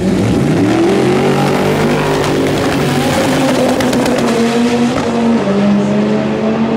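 A car engine running hard, its pitch stepping up and down several times, over a dense hiss of tyre and road noise.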